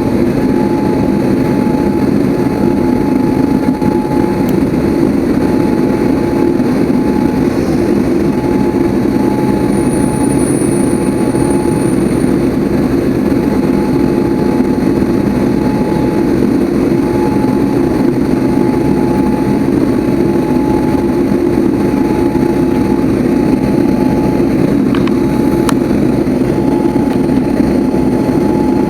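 Steady jet engine noise from the Boeing 787-8 Dreamliner, even in level throughout, with a faint steady whine above the drone.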